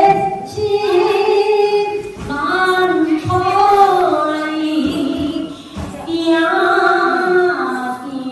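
A woman's voice singing unaccompanied in long held, gliding phrases, with short breaks between them.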